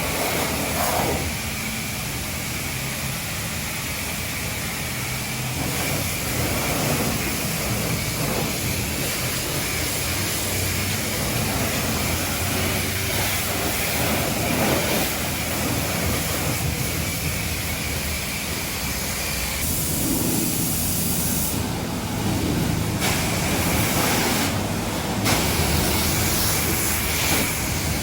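High-pressure washer wand spraying steadily, blasting spilled paint off a pickup truck, with a couple of brief breaks in the spray about two-thirds of the way through.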